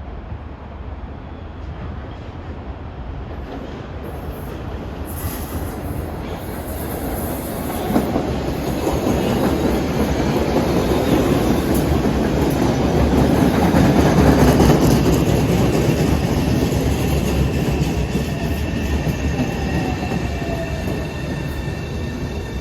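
Train running through the station: a rumble that builds to a peak about two-thirds of the way through and then eases off, with a sharp knock about eight seconds in and a thin high wheel squeal over the later part.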